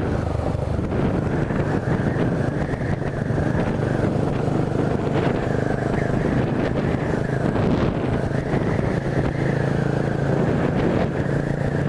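Honda CB 300 motorcycle's single-cylinder engine running at a steady speed under way, heard from on the bike.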